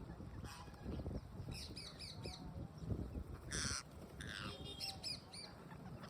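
Parrots calling: a run of short falling chirps, a harsh squawk about three and a half seconds in followed by a shorter one, then more chirps near the end.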